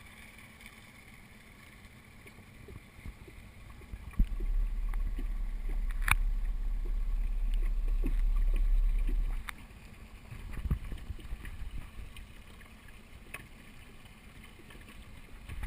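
Muffled water sounds and small knocks on a GoPro in its waterproof housing. About four seconds in a loud low rumble starts abruptly and lasts about five seconds, typical of the camera being dipped under the water, then stops suddenly.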